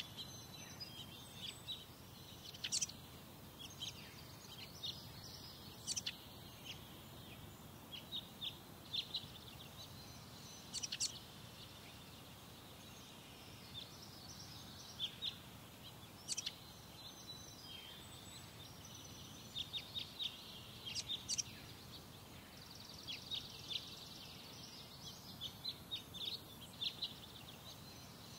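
Birds chirping: many short, high calls scattered throughout, some in quick clusters, over a faint steady low background noise.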